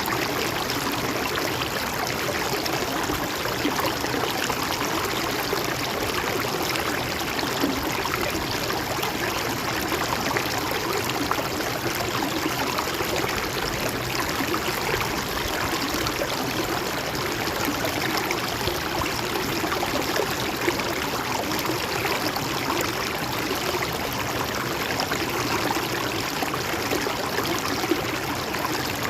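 Mountain stream flowing and trickling over rocks, a steady even rush of water.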